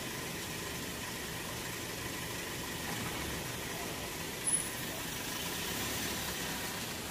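Steady running noise of a motor vehicle's engine, with a brief sharp click about four and a half seconds in.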